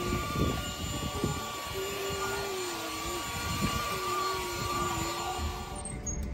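Vacuum cleaner running inside a car, with a steady high whine and a lower drone that wavers up and down in pitch; the sound changes near the end.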